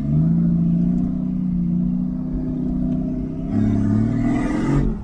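An off-road 4x4's engine running under load, heard from inside the cab. About three and a half seconds in it revs up, rising in pitch, then drops away abruptly near the end.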